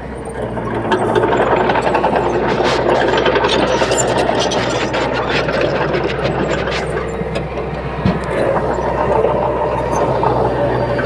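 Diesel engine of a Komatsu D31P bulldozer running under load, getting louder about a second in and then holding steady, with scattered sharp clanks.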